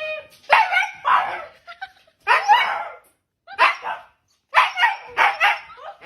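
A dog barking, about eight separate barks spaced irregularly.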